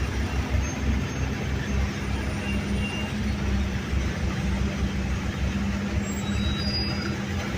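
An engine running steadily, with a held hum and a fast, even low chugging.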